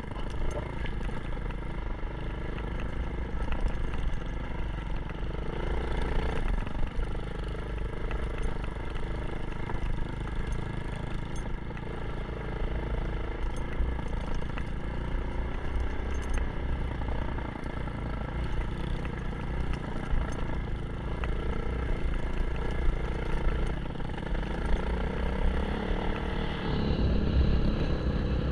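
Kawasaki KLX 150 dirt bike's single-cylinder four-stroke engine running as the bike is ridden, its pitch moving up and down with the throttle and rising near the end.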